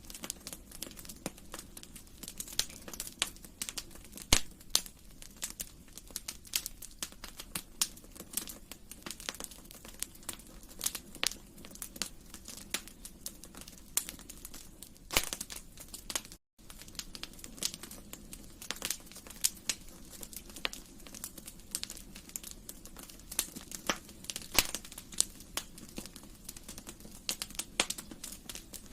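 Wood fire crackling in a fireplace: irregular sharp pops and snaps over a faint steady low rumble of flame. The sound cuts out for a split second about halfway.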